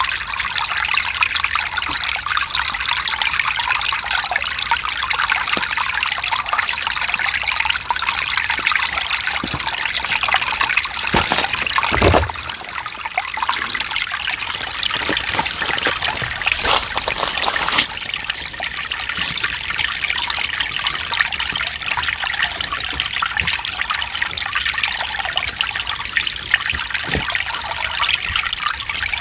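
Mountain stream running over rocks, a steady trickling and splashing of water, with a brief low thump about twelve seconds in.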